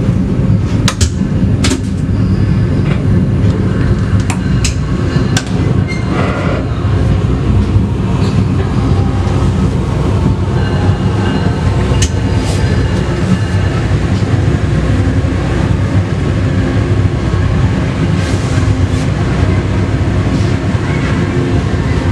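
Passenger train running on rails: a steady, loud low rumble with sharp clacks of the wheels over rail joints, several in the first six seconds and one more about halfway.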